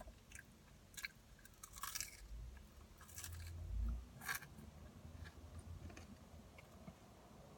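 Close-up mouth sounds of someone chewing and crunching a fried chicken sandwich. Several short crunchy clicks come between about one and four and a half seconds in.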